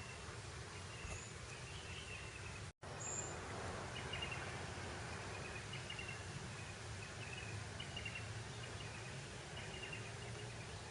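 Breeze over open grassland as a steady rustling hiss, with short high chirps repeating about once a second. The sound cuts out completely for an instant about three seconds in.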